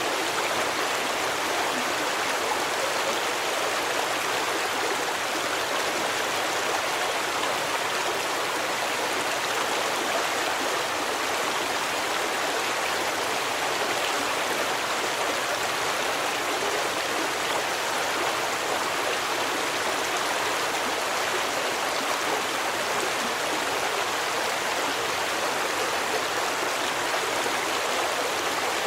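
Stream of water rushing and splashing steadily over rocks, a constant even hiss with no breaks.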